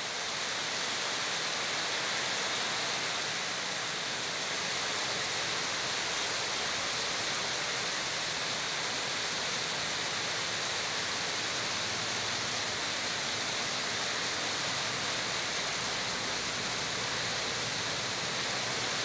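Heavy rain pouring steadily onto a flooded road, a constant hiss of water.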